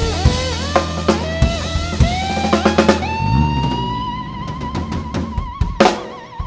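Instrumental blues: slide guitar playing gliding phrases over drum kit hits and sustained electric bass. About halfway in, the bass drops out and the guitar holds one long note with vibrato, broken by a drum fill near the end.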